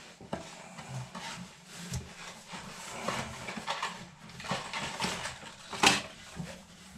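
Hands rummaging through a box of toilet-rebuild parts in search of a brass nut: scattered light knocks, clicks and rustles, with one sharp click about six seconds in.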